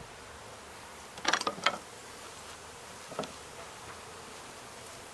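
Honeybees buzzing steadily in the background, with a quick cluster of sharp knocks and clicks about a second in and a single smaller knock about three seconds in, from handling the comb and hive.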